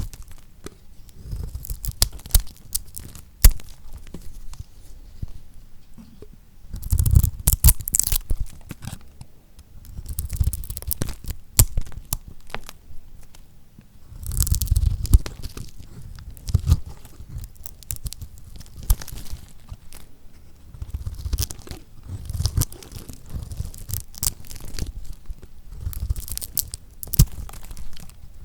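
A knife cutting through lacquered soap, the hardened coating crunching and crackling in irregular bursts of sharp clicks with dull low thuds, separated by quieter pauses.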